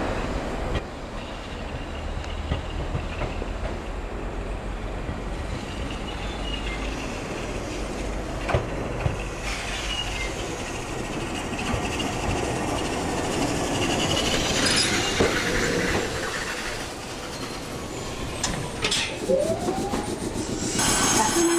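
A single-car Gakunan Railway 7000-series electric railcar pulling into the platform, its wheels clicking over rail joints and points. Thin high wheel or brake squeal comes in as it slows past.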